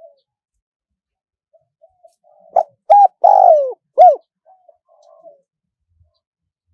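Spotted dove cooing: soft low notes lead into a loud phrase of four coos about two and a half seconds in, one of them longer and falling in pitch, then a few soft trailing notes. It is a recorded decoy call for luring wild doves.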